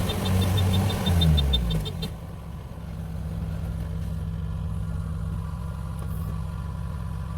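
Diesel engine of a farm machine running loud with a rapid high ticking, then slowing with a falling pitch and settling about two seconds in to a steady, quieter idle.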